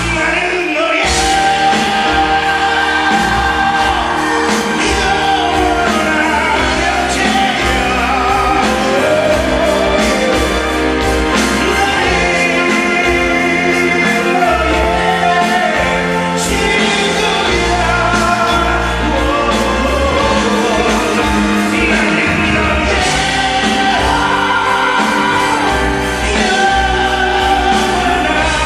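Live band playing a rock ballad under a male lead voice singing with heavy vibrato, recorded from the audience in a concert hall.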